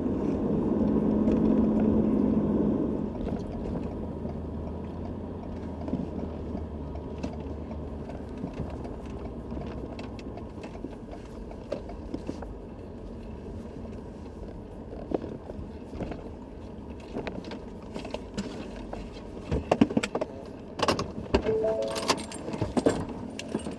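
Ford F-350 pickup driving slowly with a steady low engine and road rumble, louder for the first few seconds. Light rattling and clinking runs throughout, with a run of sharper clicks and knocks near the end.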